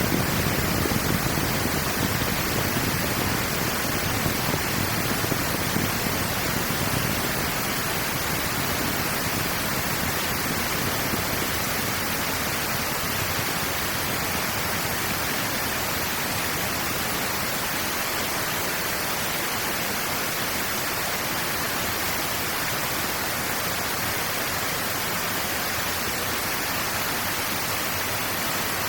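Steady rushing of water. A deeper rumble under it in the first several seconds eases off about seven seconds in.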